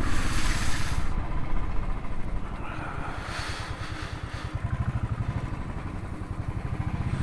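Royal Enfield Thunderbird 350X single-cylinder engine running at an even pace while riding, its exhaust beat a fast low pulse, with wind rushing on the microphone that swells and fades.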